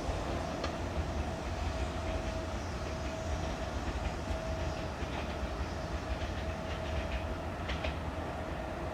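Kintetsu Minami-Osaka Line electric train running on the track: a steady rumble with a steady hum and scattered clicks of the wheels over the rail joints, easing slightly in level.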